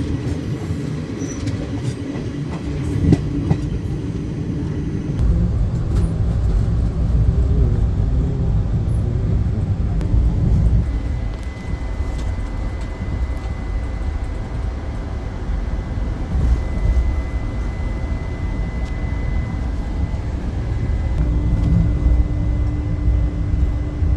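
Indian passenger train running along the track: a steady low rumble of wheels and carriages. A faint, thin, high steady tone joins about halfway through.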